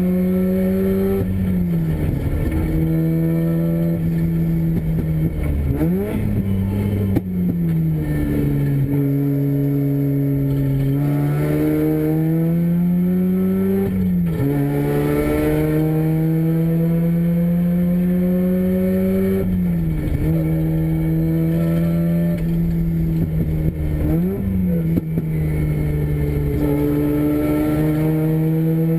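Mazda Renesis two-rotor rotary engine in a race car running hard at speed, its pitch climbing steadily under load and dropping sharply several times at shifts or lifts before climbing again. The engine is freshly rebuilt and being tested on track.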